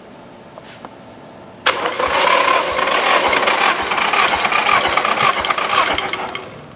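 Nissan SR20DET four-cylinder turbo engine cranked over on its starter motor without firing, as for a compression test. The cranking starts abruptly about two seconds in, runs steadily with a regular low thump, and stops near the end.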